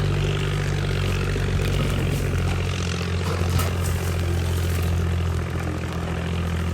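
An engine or motor running steadily at a constant speed, a low even drone.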